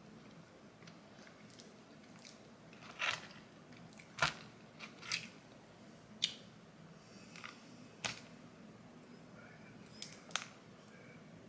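Close-up eating sounds: chewing fast food, with irregular short crunches and clicks as the food is bitten and handled, the loudest about four seconds in.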